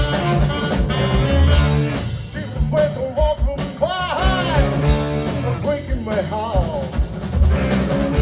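Band playing an instrumental break: drums and bass keep a steady rock beat while a lead melody with bending notes takes over about two and a half seconds in.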